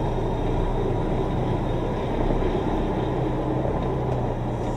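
Semi-truck's diesel engine running steadily at low revs, heard from inside the cab, with a constant low hum.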